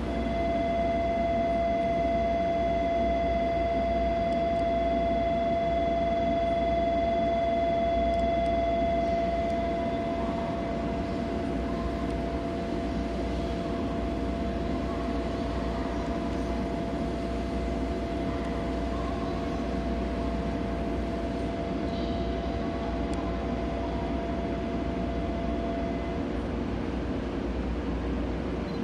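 Shinkansen train at a station platform: a steady hum with several held tones over a low rumble. The tones stop about 26 seconds in, with no rise or fall in pitch.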